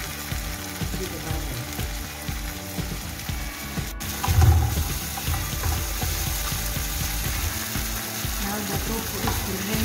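Cubed tofu frying in a metal pan, sizzling steadily as a wooden spoon stirs and scrapes it, with a low thump about four and a half seconds in.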